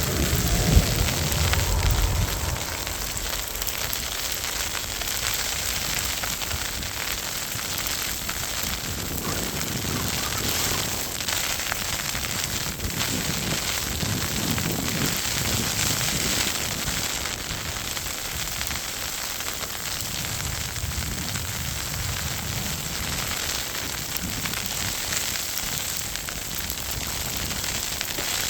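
Storm noise outdoors: a steady crackling hiss like wind-driven snow striking the microphone, with low gusting wind rumble at the start and again around the middle and near the end.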